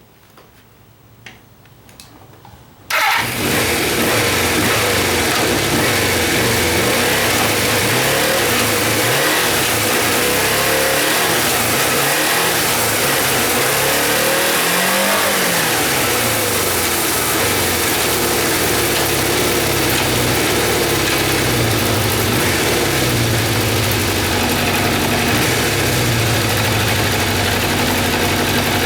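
Suzuki GSX400F's air-cooled inline-four engine starting about three seconds in after a few faint clicks, then idling, with several throttle blips that rise and fall in pitch around the middle before it settles back to a steady idle.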